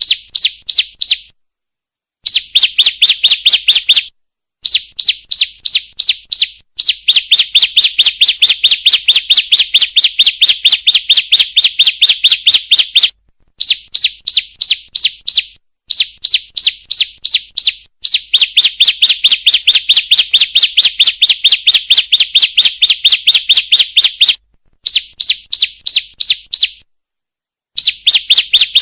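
Bar-winged prinia (ciblek) calling, the female's call used as a lure to draw males: a rapid run of high, sharp chirps, several a second, repeated in bouts of one to six seconds broken by short silent gaps.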